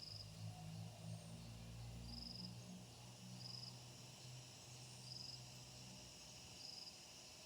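Faint insect chirping: short high-pitched chirps repeating about every second and a half, over a low steady hum.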